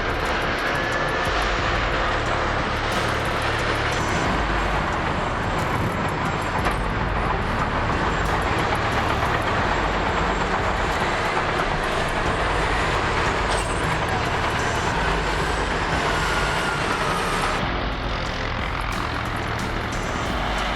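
Heavy vehicle engine running steadily, with a faint whine that drifts slowly in pitch.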